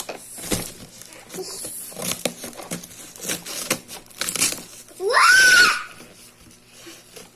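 A child's high-pitched squeal about five seconds in, rising sharply and then held briefly, over scattered clicks and crinkling from handling the toy and its packaging.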